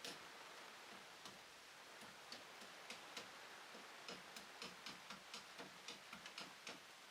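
Faint series of short, light clicks, irregular in spacing, coming closer together from about four seconds in.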